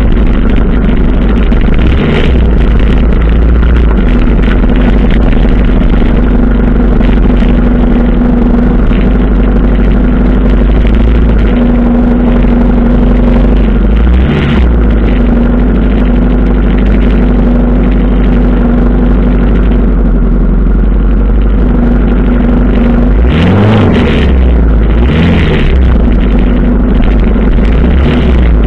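Motorcycle engine, the 1985 Suzuki GS 700 ES inline-four, running steadily at low road speed with a deep rumble. Short throttle blips rise and fall about halfway through and twice near the end.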